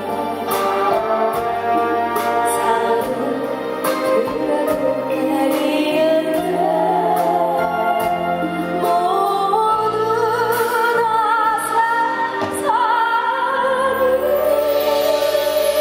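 Live band music with a woman singing a slow winter song, her held notes wavering with vibrato and climbing in pitch through the middle.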